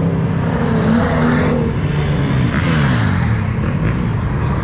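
Dodge Charger V8 engines running loud, with one engine's revs gliding down about three seconds in.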